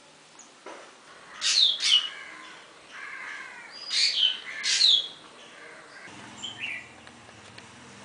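A bird calling: two loud bursts of sharp calls that sweep down in pitch, about a second and a half in and again around four seconds in, then a softer, shorter call later.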